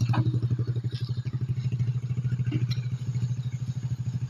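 A small tractor engine running steadily with a fast, even pulsing beat, a few light knocks and clatters over it.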